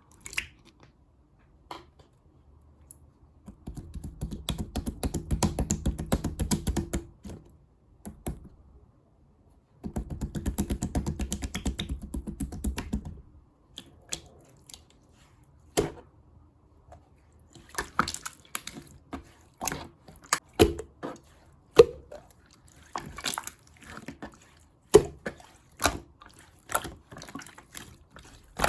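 Clear slime being squished and stretched by hand, making wet clicks and pops. Two runs of dense, rapid crackling of about three seconds each are followed by scattered sharp pops.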